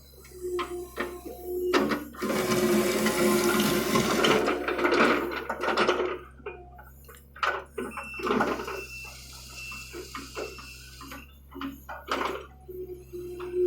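John Deere excavator working: a steady engine hum, with a loud rush of noise about two seconds in that lasts a couple of seconds, then scattered knocks and clanks.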